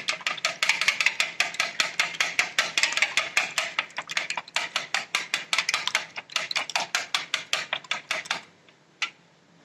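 Eggs being beaten by hand in a bowl, the utensil clicking rapidly and evenly against the bowl at about six strokes a second. The beating stops a little before the end, followed by one last tap.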